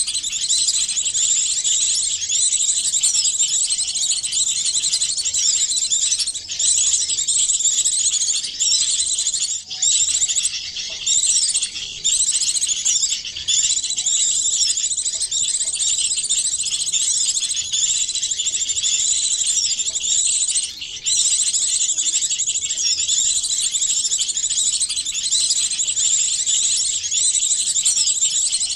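Dense chorus of high-pitched small-bird chirps and twitters from several songbirds layered together, a composite bird-lure recording played to attract small birds. It runs unbroken except for a few brief dips.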